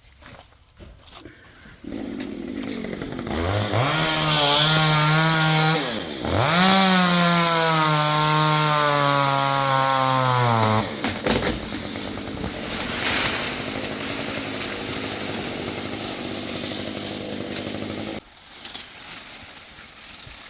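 Two-stroke chainsaw revved to full throttle, dipping briefly about a third of the way in and then pulled high again with its pitch sagging slowly, as when the chain is loaded in a cut. It then drops back to a lower, rougher running and eases off near the end.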